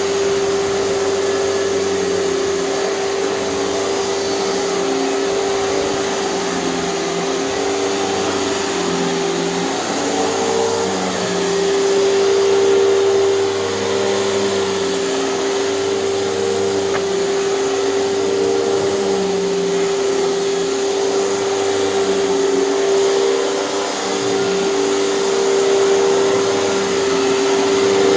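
Hoover canister vacuum cleaner running with a TurboPower 5000 power nozzle, worked back and forth over carpet. A steady motor whine over a rushing hiss, with lower tones shifting and the level swelling gently every second or two.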